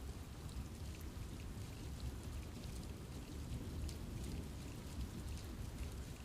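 Steady rain falling on forest foliage, with many small scattered drops ticking over a low, even rumble of rainfall.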